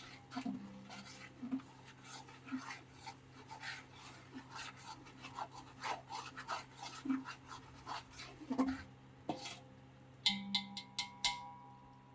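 Irregular clicks, knocks and rustles of food preparation, with a steady low hum underneath; near the end a few sharp metallic strikes ring briefly, like utensils or vessels clinking.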